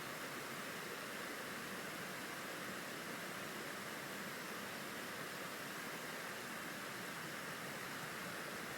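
Forest stream flowing: a steady, even rush of water with no splashes or other sounds standing out.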